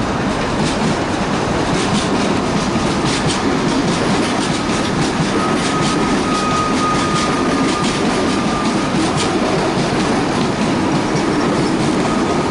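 Suburban electric train running past close by, a steady rumble with wheels clicking over rail joints. A thin high squeal or whine comes in around the middle and again near the end.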